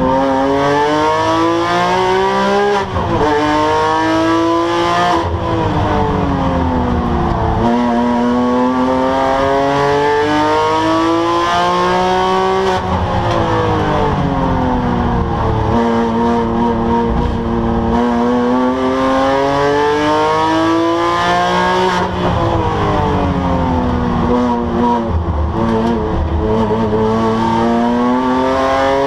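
Porsche 997 GT3's flat-six engine at racing speed, revving up hard through the gears and then falling away under braking, over and over along the track, with sharp pitch jumps at the gear changes.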